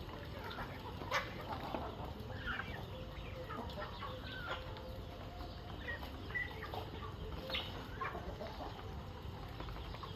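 A flock of chickens clucking at feeding time, with short calls scattered throughout and a few sharp clicks among them.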